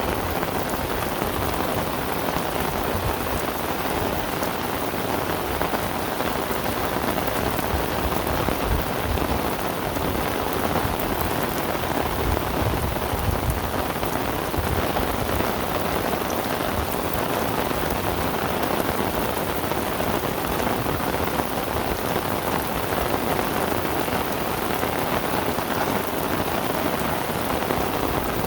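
Heavy rain falling in a steady downpour, a constant hiss of drops on the surfaces around.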